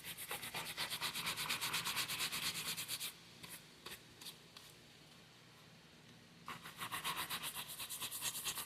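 A brush buffing a leather holster strap in quick, rhythmic back-and-forth strokes, raising a luster on the freshly applied leather dressing. The brushing pauses for about three seconds in the middle, then starts again.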